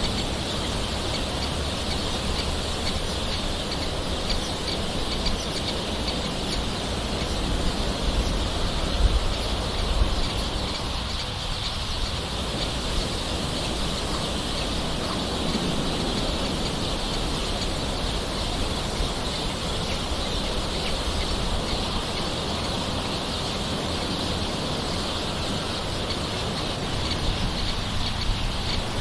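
Steady rain hiss with birds calling throughout.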